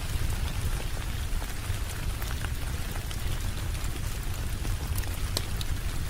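Steady rain with a low rumble underneath, and scattered sharp crackles from a wood fire.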